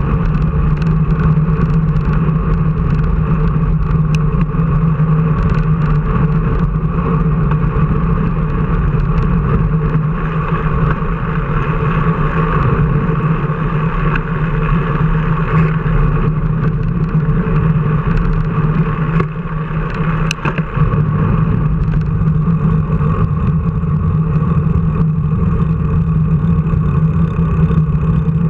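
A motor vehicle's engine running at a steady speed, a constant low drone with road and wind noise over it; the level dips briefly about two-thirds of the way through.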